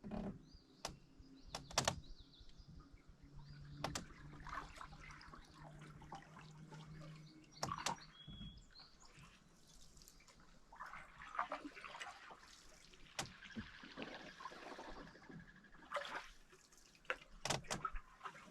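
Canoe paddling: the paddle splashing and dripping in the river, with scattered sharp knocks of the paddle against the canoe.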